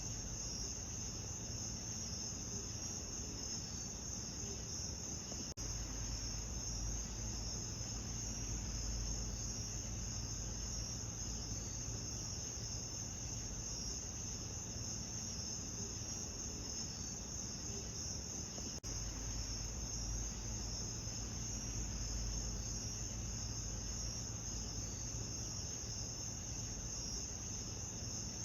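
Steady chorus of crickets, a dense high trill that never lets up, over a low steady rumble.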